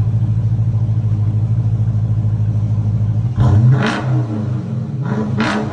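Chrysler 300S's 5.7-litre HEMI V8 through a muffler-delete exhaust with a Flowmaster Outlaw, idling with a steady loud rumble, then blipped twice, about three seconds in and again near the end, each rev rising quickly and dropping back.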